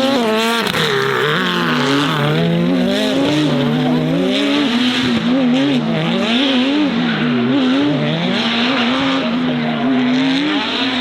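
Performance car engine held at high revs, its pitch bouncing repeatedly up and down as the throttle is worked, with tyres squealing and skidding. It cuts off suddenly at the end.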